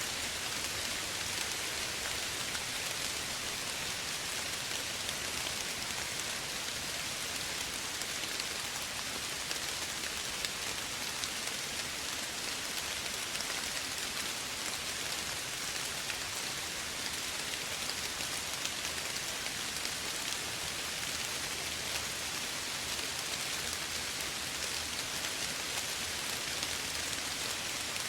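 Steady soft rain falling, an even hiss of many fine drops with faint scattered ticks of individual drops.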